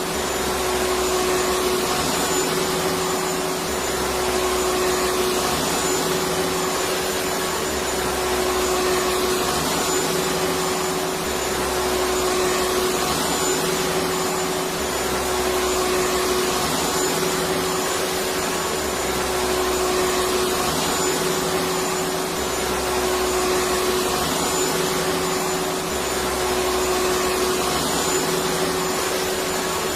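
Electric vacuum cleaner running steadily: a continuous rushing whir with a constant hum, and a slight low pulse that repeats every couple of seconds.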